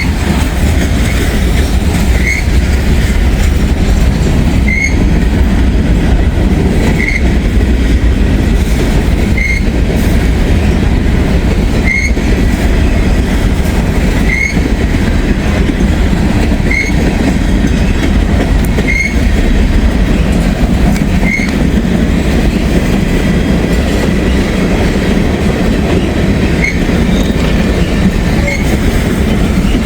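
Freight train of boxcars rolling past close by: a steady loud rumble of wheels on rail, with a short high-pitched tone recurring about every two and a half seconds.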